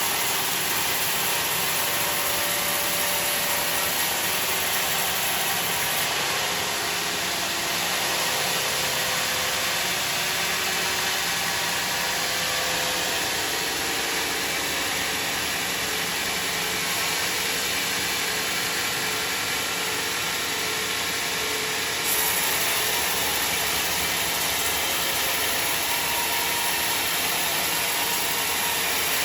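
Sawmill saw running and cutting through a large log, a steady mechanical noise with a high hiss. The high hiss weakens about six seconds in and comes back sharply about three-quarters of the way through.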